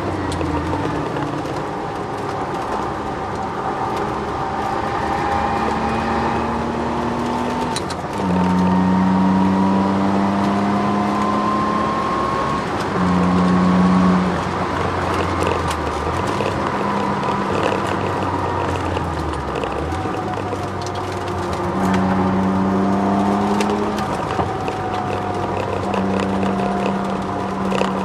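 Twin-turbo Ford Sierra XR4x4 heard from inside the cabin at speed on track: the engine pulls up through the revs, with several gear changes where the pitch drops and climbs again. A fainter whine rises and falls with road speed, which the owner puts down to the solid differential mount and polyurethane bushes.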